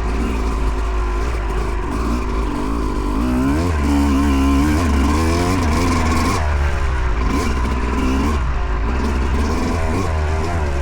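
Yamaha YZ250 two-stroke single-cylinder dirt bike engine under riding load, the revs rising and falling repeatedly as the throttle is worked, climbing about four seconds in, over a steady low rumble.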